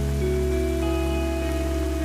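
Slow ambient music of long held notes over a deep bass drone, mixed with the steady hiss of rain falling.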